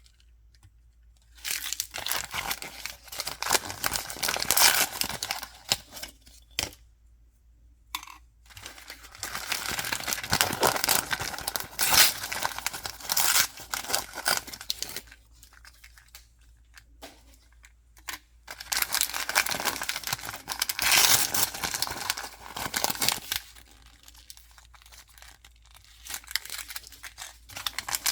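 Packaging being torn open and crinkled by hand, in three or four stretches of several seconds with short quiet pauses between them.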